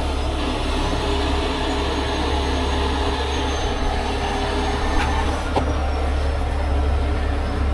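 Steady low rumble of heavy vehicle noise, with a faint high squeal slowly falling in pitch and a few light clicks.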